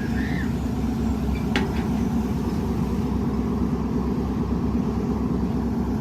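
Steady low rumble of a vehicle's engine and road noise, with a single sharp click about a second and a half in.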